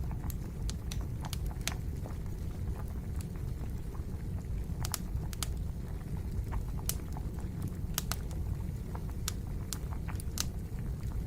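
Wood fire crackling, with sharp irregular pops about once or twice a second over a steady low rumble.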